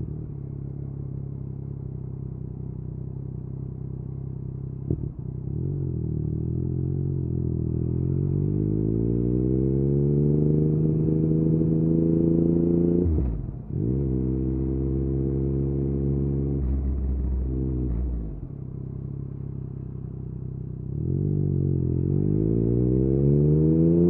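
Yamaha MT-09's inline-three engine through an Akrapovic exhaust, ridden in traffic: it runs low, then climbs steadily in pitch under throttle. About halfway there is a quick dip and recovery at a gear change, then steady running. After easing off it pulls up in pitch again near the end, with a short click about five seconds in.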